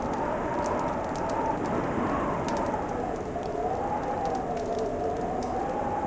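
Wood fire crackling with scattered sharp pops over a steady hiss. Beneath it a wintry wind moans with a pitch that slowly rises and falls.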